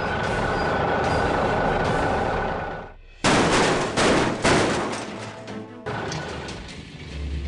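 Cartoon sound effects: a steady noisy rush with a held high tone, then, after a brief drop about three seconds in, a series of loud bangs like explosions, each trailing off.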